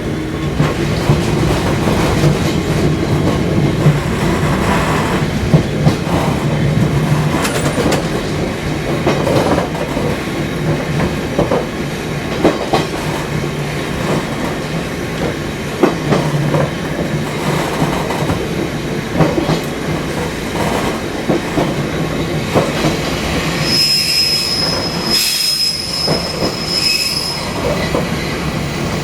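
Fukui Railway Type 200 electric car running along the line, with a steady motor hum and frequent wheel clicks over rail joints. About 24 seconds in, a high wheel squeal sounds for roughly three seconds.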